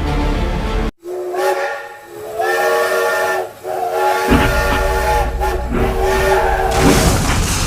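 Multi-tone train horn sounding in about five long, steady blasts with short breaks between them. A low rumble runs underneath from about halfway through.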